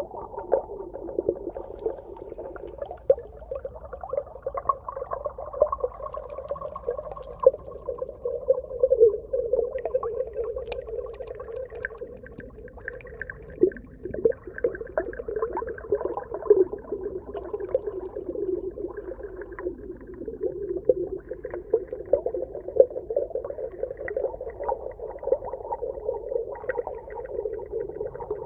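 Underwater ambience: a steady, muffled wash of sound with many small pops and crackles throughout.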